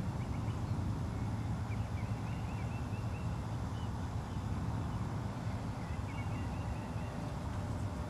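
A songbird calls in two quick runs of repeated high notes, about two seconds in and again about six seconds in, over a steady low rumble.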